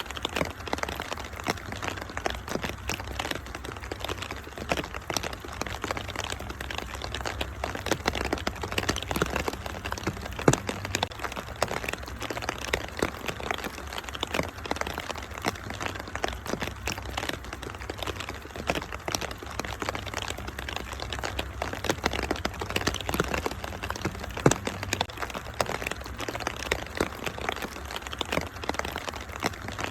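Wood fire crackling with many irregular sharp pops and snaps, over a steady patter of rain and a low rumble. Two pops stand out louder, about ten seconds in and again about twenty-four seconds in.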